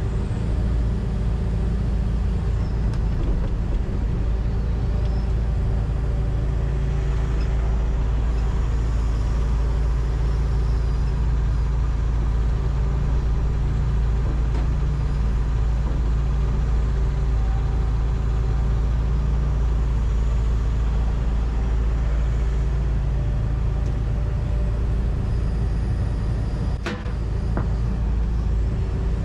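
John Deere 245G excavator's diesel engine and hydraulics running steadily under load, heard from inside the cab while digging and loading dirt. A single sharp click about 27 seconds in.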